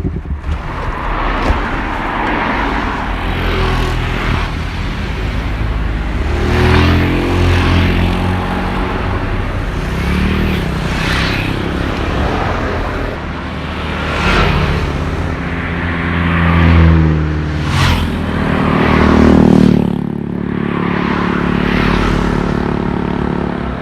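Honda CBR250RR motorcycle engine being ridden, revving up and easing off several times as it accelerates, over steady road and wind noise.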